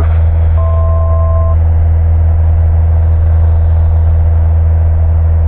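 Cessna 172 Skyhawk's piston engine and propeller droning steadily in cruise, heard through the cockpit intercom. A brief, steady two-tone beep sounds about half a second in and lasts about a second.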